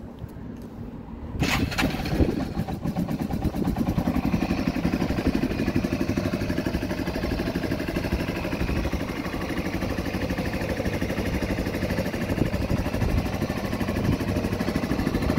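1992 Yamaha XT225 Serow's air-cooled single-cylinder four-stroke engine starting about a second and a half in, then idling with a steady, rapid beat.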